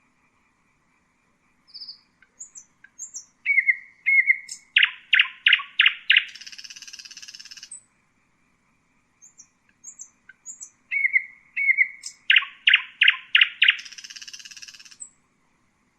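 Common nightingale singing two similar song phrases. Each opens with short chirps and a couple of whistled notes, builds to about five loud repeated notes, and ends in a rapid buzzing trill, with a pause of about a second and a half between the phrases.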